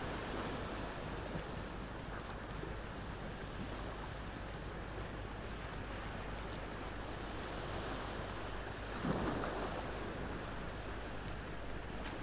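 Ocean waves washing steadily on the shore, one wave surging louder about nine seconds in, with a few faint pops from a crackling wood fire.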